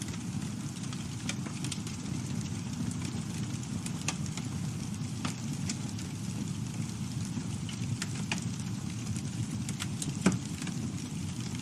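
Campfire burning: a steady low rumble of the flames with scattered sharp crackles and pops, one louder pop about ten seconds in.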